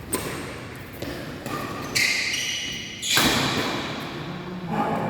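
Badminton rally in an indoor hall: sharp racket-on-shuttlecock hits about once a second, the hardest one about three seconds in, with a shoe squeaking on the court floor about two seconds in.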